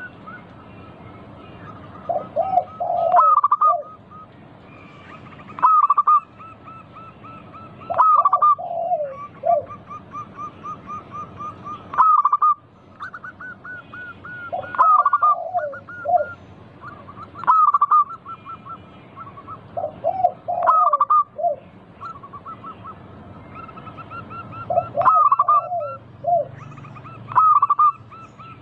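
Zebra doves (perkutut) cooing: loud repeated call phrases about every two to three seconds, with quieter rapid trilled notes running between them.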